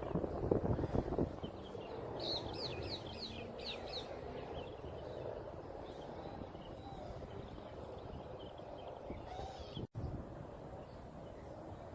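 A songbird calling: a quick run of six or seven high, downward-sweeping chirps about two seconds in, then fainter chirps, over steady outdoor background noise. A few low knocks come in the first second.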